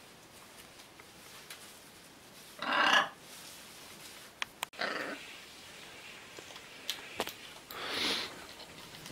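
Scarlet macaw giving three short harsh calls, the first, about two and a half seconds in, the loudest, with a few sharp clicks just before the second.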